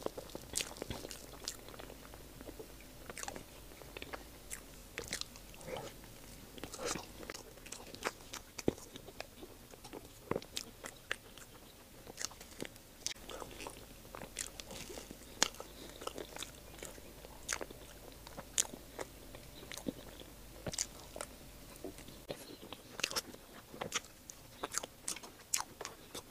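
Close-miked mouth sounds of someone eating soft chocolate mille crêpe cake from a spoon: irregular wet smacks and small clicks of chewing.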